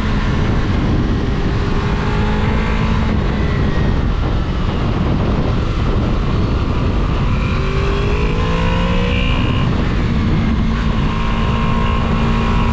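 Motorcycle riding at speed: heavy wind rush on the microphone over a steady engine note, with a rising pitch about halfway through.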